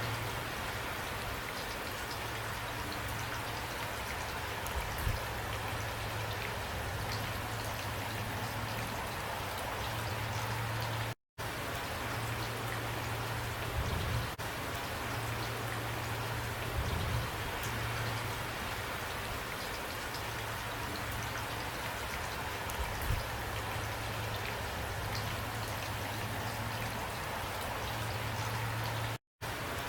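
Steady rain falling hard, with scattered individual drops ticking over a dense hiss and a steady low hum underneath. The sound cuts out completely for a split second twice, about eleven seconds in and near the end.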